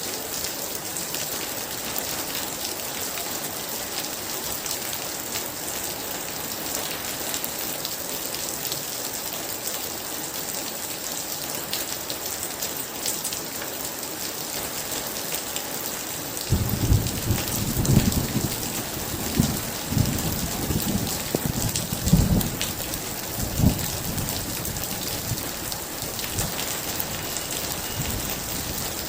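Heavy rain falling steadily as an even hiss. A little past the middle, thunder rolls in for about seven seconds with several loud peaks, then dies away, leaving the rain.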